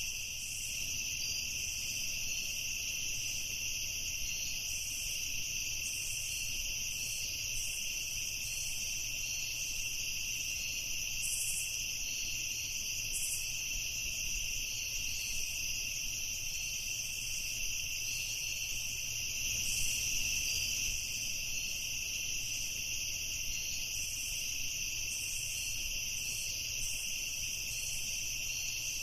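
Night ambience of crickets chirring continuously in a dense, steady chorus of high-pitched trills.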